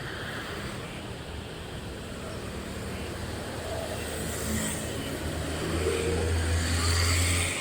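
A motor vehicle's engine running with a steady low hum, growing louder about six seconds in.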